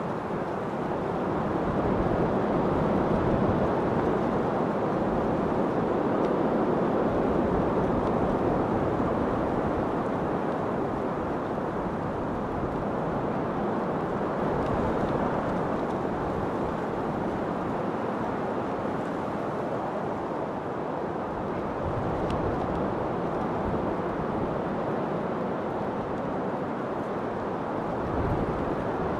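Steady wind, an even rushing noise that slowly swells and eases a little.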